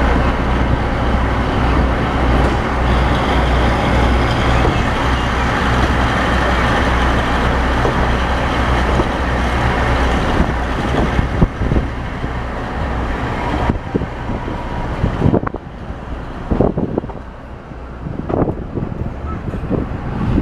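KiHa 40 series diesel railcar heard from inside the car: a steady diesel engine drone and running noise with a strong low hum, then from about 11 seconds in, irregular sharp clacks and knocks from the wheels on the track while the running noise falls away.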